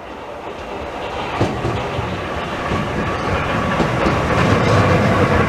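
Class 465 Networker electric multiple unit running into the platform, growing steadily louder, its wheels clacking over the rail joints.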